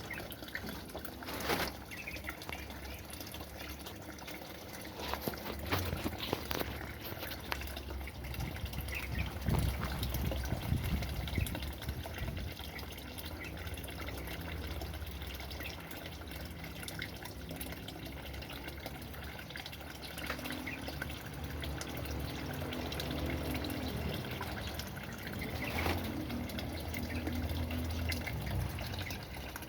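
Steady trickle of running water, with a few short clicks.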